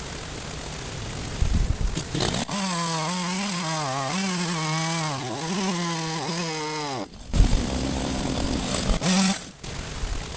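Petrol chainsaw at full throttle cutting through wood, its pitch wavering and dipping as the chain loads up in the cut. About seven seconds in it drops back, a loud knock follows, and near the end there is one short rev.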